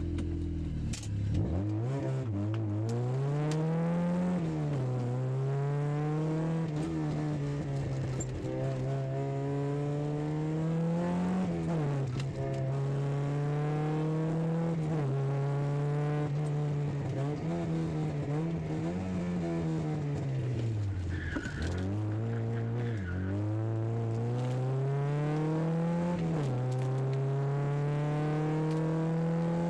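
Volkswagen Scirocco Mk1's four-cylinder engine heard from inside the cabin, driven hard on a circuit: the revs climb repeatedly and drop back sharply at each gear change or lift for a corner.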